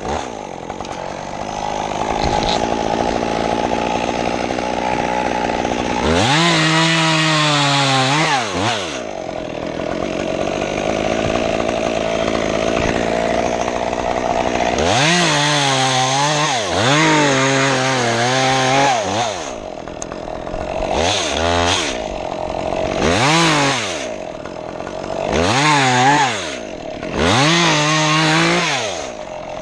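Stihl chainsaw running, revved up and back down about six times for short cuts through tree limbs, and held at a steadier lower speed between the cuts.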